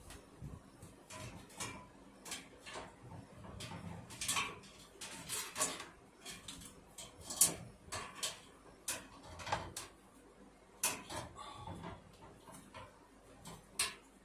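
Irregular clicks, taps and light knocks of hard plastic and metal parts being handled and fitted while a Lasko Weather Shield box fan is reassembled.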